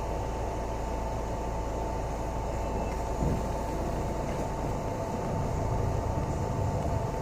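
Steady ride noise inside a city bus on the move: a low engine and road rumble under an even hiss, with a constant faint whine.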